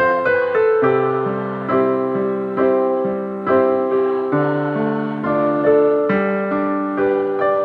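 Keyboard playing slow piano-voiced chords in an even rhythm, each chord struck sharply and fading before the next.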